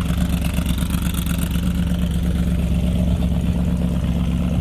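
A car engine running steadily at an even pitch, with no revving.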